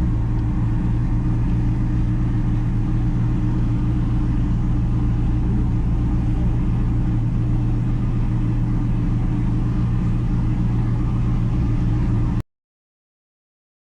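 Vehicle engine running at a steady speed with a constant low drone, cutting off abruptly near the end.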